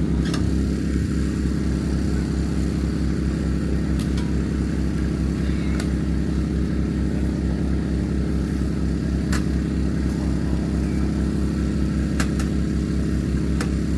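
An engine running steadily at an even idle, with a few light sharp clicks over it.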